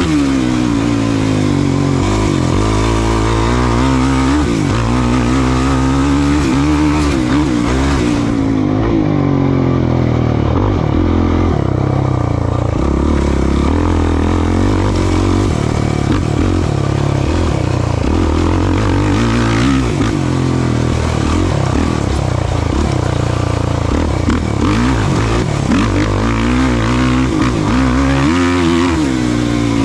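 Off-road race vehicle's engine at racing speed, its pitch rising and falling over and over as the throttle is opened and backed off, with knocks and rattles from the machine running over rough ground.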